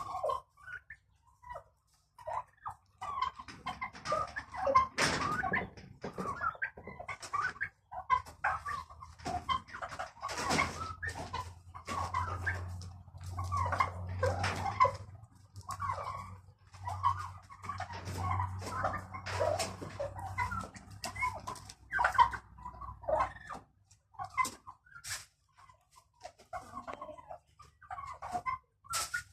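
Domestic poultry calling and clucking in short, irregular bursts, with a low steady hum underneath through the middle stretch.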